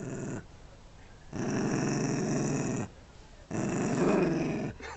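Rat terrier growling in three long stretches with short breaks between them. It is guarding a brick that it is holding, possessive growling at its owner.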